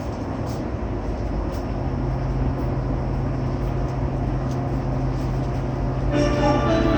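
Steady background noise inside a stopped E231 series commuter train car with its doors open, with a low steady hum from the train's equipment coming in about two seconds in. Near the end a station departure melody starts playing.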